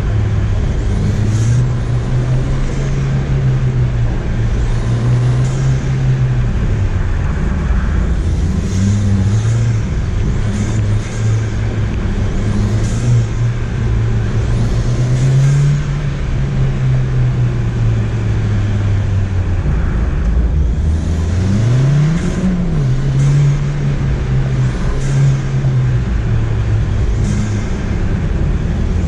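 Ford Fiesta ST's turbocharged engine working hard through an autocross run on a wet course. The engine pitch climbs and drops again and again as the car accelerates, brakes and shifts, with a sharp rev rise a little over two-thirds of the way in. Brief high chirps are scattered throughout.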